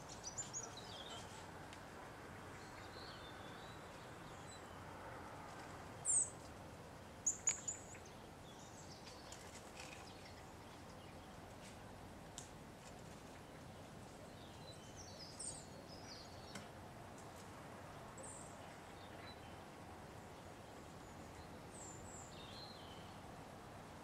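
Small songbird giving short, high chirps now and then over a faint steady outdoor hiss. The loudest chirps come about six and seven seconds in.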